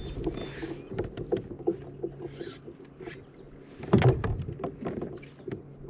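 Irregular clicks and knocks of gear handled on a plastic fishing kayak, with a loud knock about four seconds in, over a low steady hum.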